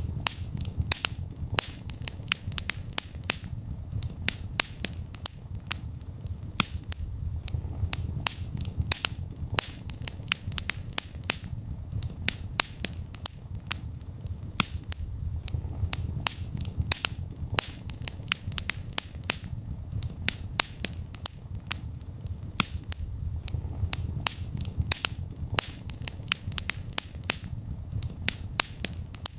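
Wood fire burning in a fireplace: sharp, irregular crackles and pops several times a second over a steady low rumble of the flames.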